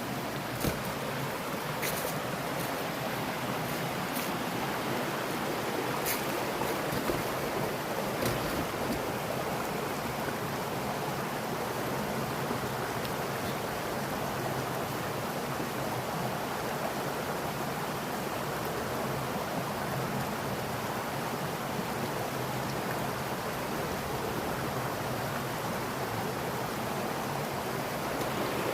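Mountain stream water flowing and splashing steadily over rocks, with a few light clicks in the first several seconds.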